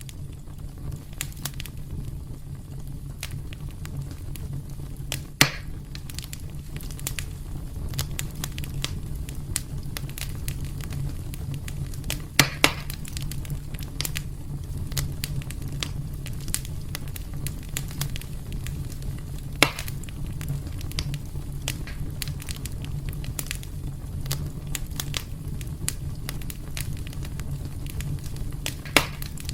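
Wood fire burning in a fireplace: a steady low rumble of flames under constant small crackles, with a handful of louder pops, two in quick succession near the middle.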